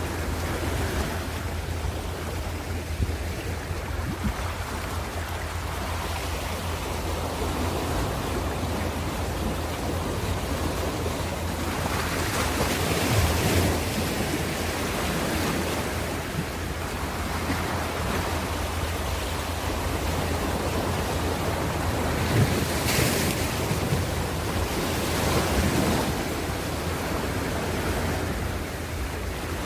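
Ocean surf: waves continuously breaking and washing in, with a steady low rumble. A few louder wave crashes rise out of it about halfway through and twice near the end.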